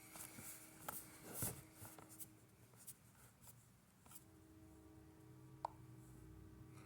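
Faint, distant Norfolk Southern freight train horn sounding a steady chord of several notes. It breaks off about two seconds in and sounds again about four seconds in, as a crossing signal. A few light clicks from handling the phone are mixed in.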